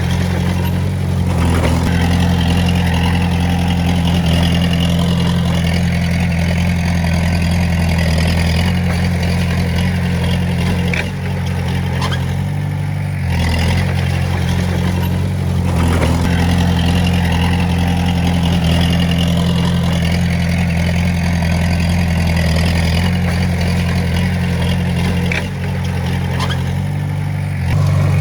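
Komatsu D20A bulldozer's diesel engine running steadily under work, its note shifting briefly about every thirteen seconds as the load changes.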